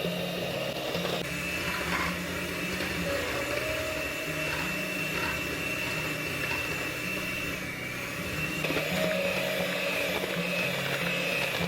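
Small electric kitchen appliance motor running steadily with a high whine.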